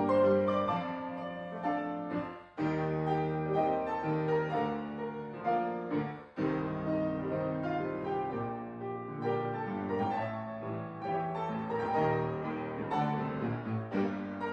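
Background piano music, a melody of held notes over chords, with two brief breaks about two and a half and six seconds in.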